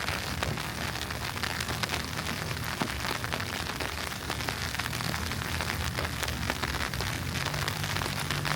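Steady hiss and fine crackle of wet snow falling and pattering on a city street, over a low steady hum.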